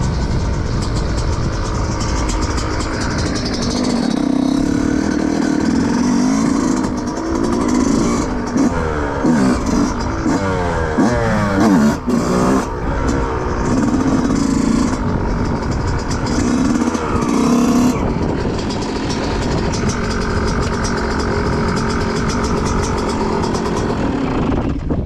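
2005 Yamaha YZ125's single-cylinder two-stroke engine running under load, its pitch rising and falling again and again as it is revved, busiest in the middle.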